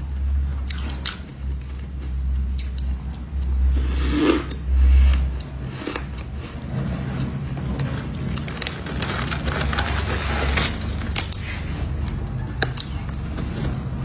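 Close-up biting and crunching of freezer frost and ice, scattered crisp cracks and crackles with a louder burst about four seconds in, over a steady low rumble.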